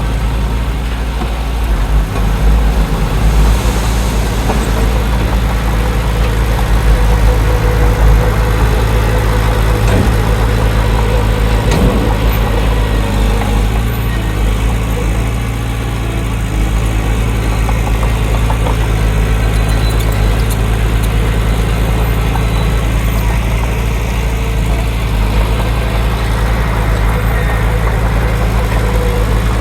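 Diesel engine of heavy earthmoving machinery running steadily with a deep, even hum, swelling slightly now and then.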